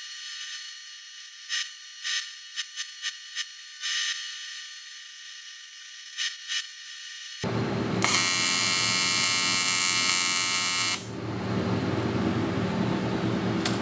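TIG welding arc on the aluminium engine case, run from a Miller 280DX welder, giving a high-pitched electric buzz broken by short clicks. About seven seconds in, a louder full buzz starts and holds for about three seconds before easing to a lower steady hum.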